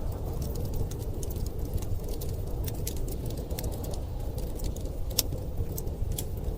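Wood fire crackling in a fireplace, with irregular sharp pops and snaps over a steady low rumble of storm wind.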